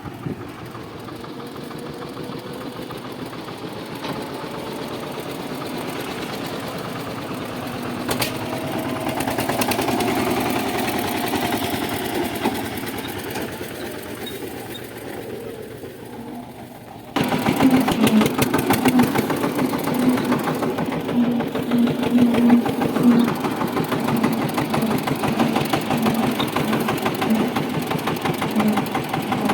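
Tractor engine running steadily, swelling and easing in the first half. About halfway through it becomes suddenly louder, with a fast, even pulsing beat.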